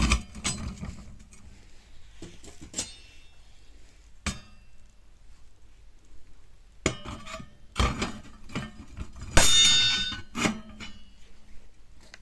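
Metal fire-pit parts clinking and clanging as they are handled and fitted together. A series of separate knocks, each with a short metallic ring. The loudest, longest-ringing clang comes about nine seconds in.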